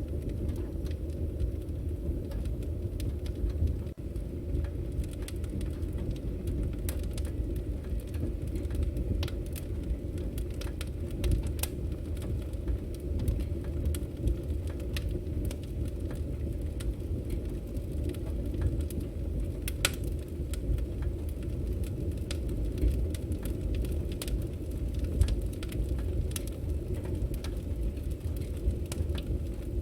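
Firewood burning: a steady low rumble of the flames with scattered crackles and pops throughout, a couple of them sharper than the rest.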